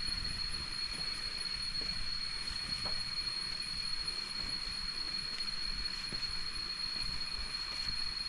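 Jungle insects droning in one steady, unbroken high-pitched whine.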